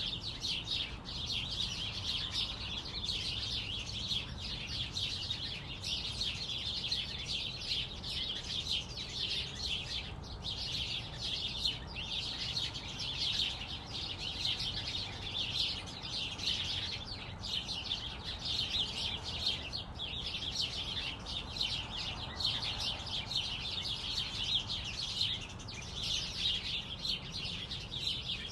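A flock of small birds chirping together in a dense, continuous chorus of overlapping short chirps with no break.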